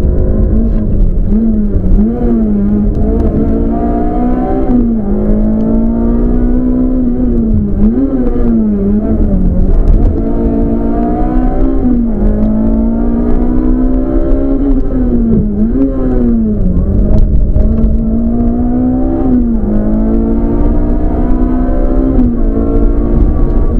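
Peugeot 206 rally car's engine heard from inside the cabin, pulling hard through the gears. Its pitch climbs for a few seconds and then drops sharply at each gear change, repeatedly, over a constant low road and drivetrain rumble.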